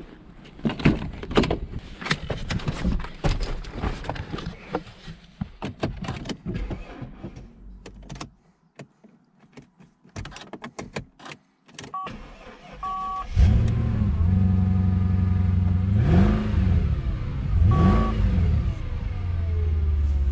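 A run of clicks and knocks, then a couple of short warning beeps. About two-thirds of the way in, a Mercedes V8 engine starts and settles into a steady idle, blipped up and back down twice.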